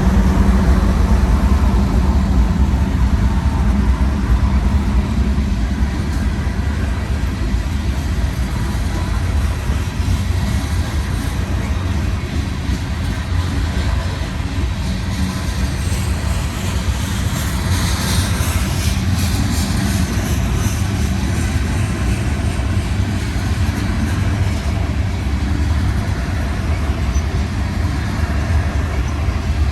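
Loaded freight train rolling past: a loud, steady low rumble of the diesel locomotives and cars, with a few seconds of higher metallic clanking near the middle.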